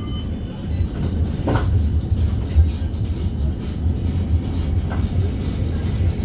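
Inside a West Midlands Metro CAF Urbos 3 tram running between stops: a steady low rumble of the motors and wheels on the rails, with a brief clatter about one and a half seconds in and another fainter one later.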